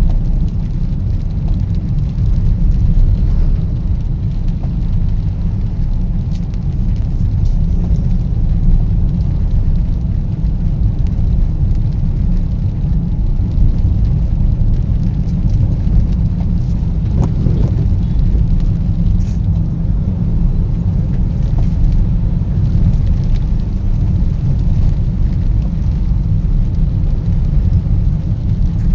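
Rain falling, heard as faint scattered ticks over a steady, loud low rumble.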